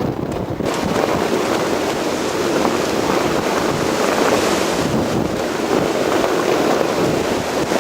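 Loud, rough rush of gale-force wind buffeting the microphone, rising sharply about half a second in and staying strong.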